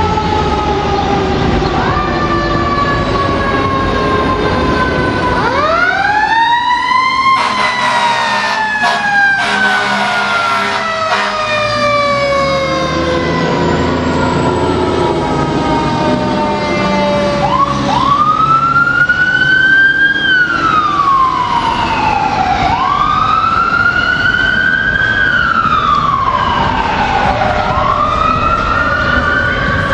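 Fire truck sirens passing: a siren winds up steeply and slowly coasts down, a stretch of horn blasts follows, then a siren wails up and down over and over, over the trucks' engines.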